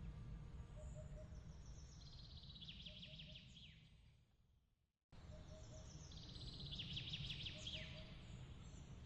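Faint bird chirps and quick trills over a low steady rumble. The sound fades out to silence about four seconds in, then cuts back in abruptly at about five seconds, and the same calls repeat: the seam of a looped ambience track.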